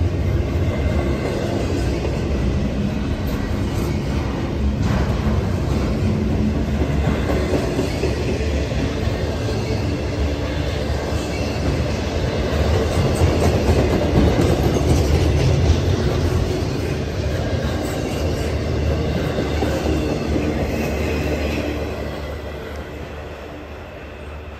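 Freight train of double-stack container well cars and trailer-carrying flatcars rolling past close by: a steady rumble and clatter of steel wheels on the rails. It fades away near the end as the last cars move off.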